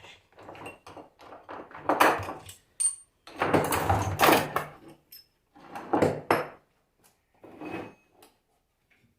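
Tools and metal parts being handled on a workbench: irregular knocks and clatter, with a longer stretch of scraping and rummaging about three to five seconds in, tailing off near the end.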